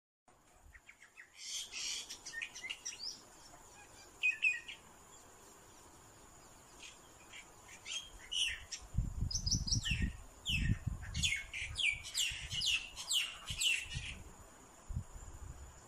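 Birds chirping: quick series of short, falling high calls in clusters, thickest in the second half. Some low rumbles come in around the middle.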